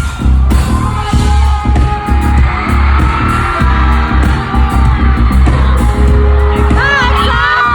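Live K-pop concert heard from inside the crowd: loud amplified music with a heavy bass and singing, fans cheering. High screams rise over it near the end.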